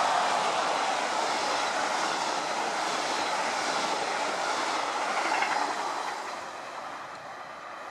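Double-deck regional train coaches rolling past: the wheels running on the rails make a steady loud rush, which eases off about six seconds in as the end of the train goes by.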